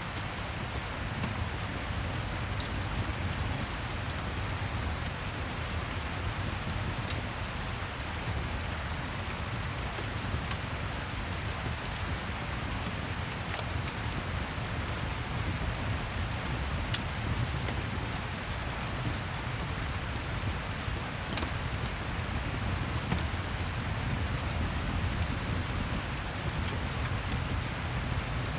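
Steady rain ambience with a fireplace mixed in, a few faint crackles scattered through the even hiss of the rain.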